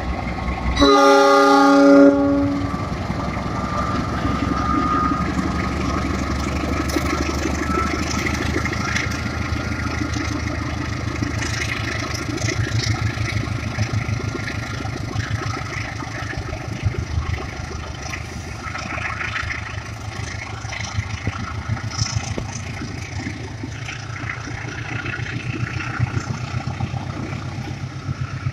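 Diesel-electric locomotive (KAI CC 206) sounds one horn blast about a second in, lasting about a second and a half. Its engine then runs under power as the passenger train pulls away, with a faint whine rising slowly in pitch and scattered clicking from the wheels on the rails.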